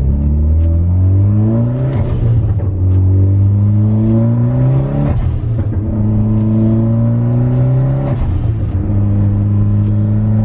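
Car engine accelerating hard through the gears: the pitch climbs in each gear and drops at three shifts, about 2, 5 and 8 seconds in, with a brief burst of noise at each shift.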